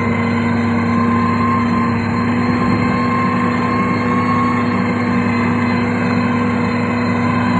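Heavy road-construction machine's engine running at a steady speed, with a steady whine over the engine noise.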